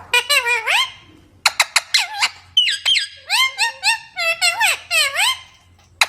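A parrot calling in rapid runs of short, high-pitched calls that sweep up and down in pitch, in several bursts separated by brief pauses.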